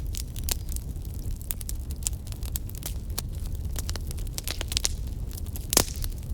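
Wood fire crackling: a steady low rumble of the burning fire with frequent sharp pops and snaps, one louder pop shortly before the end.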